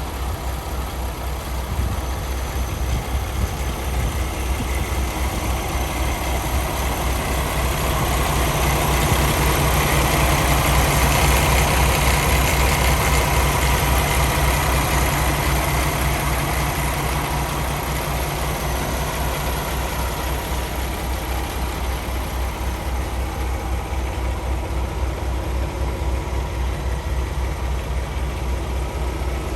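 The Paccar MX-13 inline-six diesel of a 2019 Kenworth T680 truck idling with a low, even pulse. It grows somewhat louder in the middle, then settles back.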